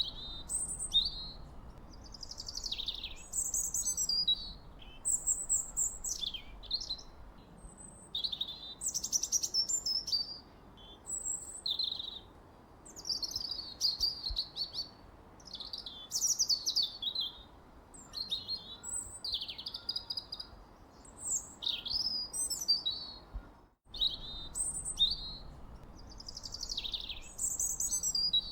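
Wild birdsong: birds chirping and singing in quick, mostly falling high notes, one phrase after another with hardly a pause, over a faint steady hiss. The sound cuts out for an instant about two-thirds of the way through.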